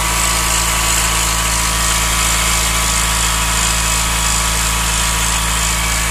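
1993 Subaru Vivio RX-R engine running steadily, with a constant high-pitched noise on top coming from near the alternator. This is the abnormal noise of a car at 160,000 km that had earlier made a much louder metallic scraping from the same spot.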